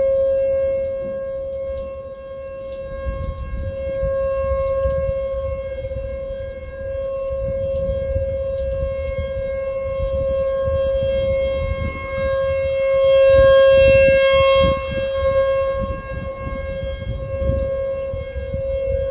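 Outdoor tornado warning siren holding one steady wailing tone, swelling and fading in loudness, loudest about two-thirds of the way through. A low rumbling noise runs underneath.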